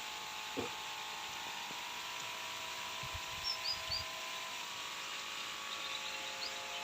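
Heavy rain falling steadily as an even hiss. About three and a half seconds in, a bird gives three short high chirps.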